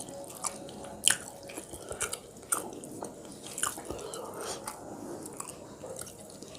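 Close-up chewing of rice and fish curry with the mouth, with wet smacking and irregular small clicks and crunches, the sharpest about a second in and again about two and a half seconds in.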